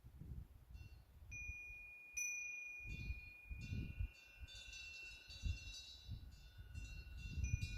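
Temple eave wind bell (pungyeong) ringing in the wind: struck over and over from about a second in, its clear tones overlapping and lingering.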